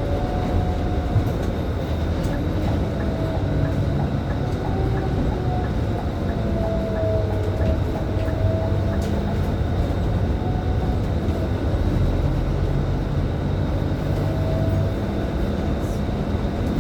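Scania K310IB city bus under way, heard from inside: steady engine and road rumble with a whine that rises and falls in pitch. A faint regular ticking runs for the first few seconds.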